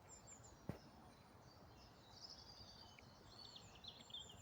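Faint birdsong outdoors: several small birds giving short high chirps and trills, clearest from about halfway through, over a low background hush. A single sharp click sounds just under a second in.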